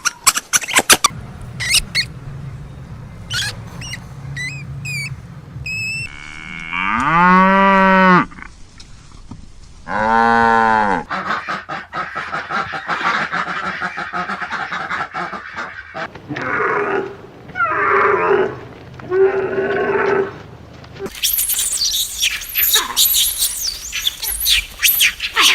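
Cattle mooing: two long, arching moos a couple of seconds apart, then several shorter calls. Short high chirps come before them, and a dense stretch of high, noisy calling near the end.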